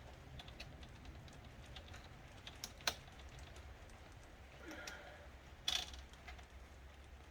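Scattered light clicks and taps of hands handling the plastic parts of a laptop's screen assembly, with a sharper click about three seconds in and a louder one near six seconds.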